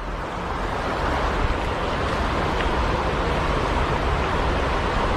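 Steady rushing of flowing river water, an even hiss with no changes.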